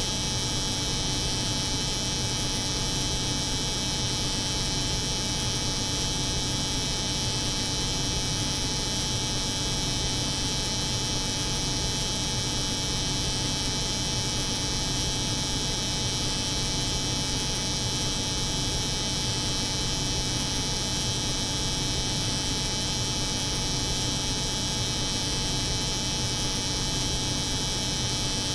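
Steady layered drone: an electric hair clipper buzzing over the hum of a cold room's refrigeration machinery. A low hum sits under a bright high hiss, unchanging.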